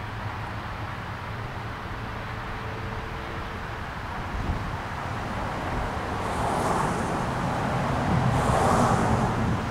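Distant approaching train, a low steady rumble that grows louder over the last few seconds, with two brief swells of hiss about six and eight and a half seconds in.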